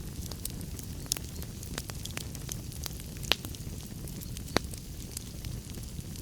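Fireplace fire burning with a steady low rumble and irregular sharp crackles and pops, two louder pops about three and four and a half seconds in.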